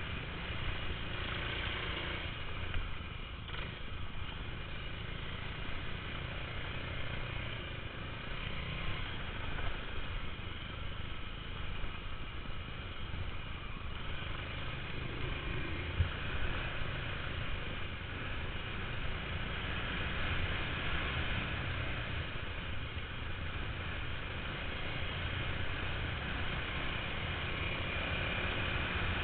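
Dirt bike engine running steadily, without sharp revving.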